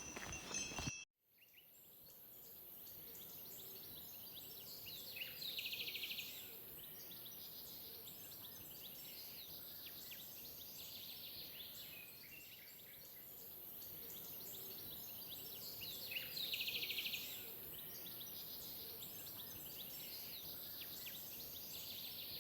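Quiet outdoor ambience with a steady high hiss, and a songbird singing a rapid trill twice, about eleven seconds apart, with faint scattered chirps between.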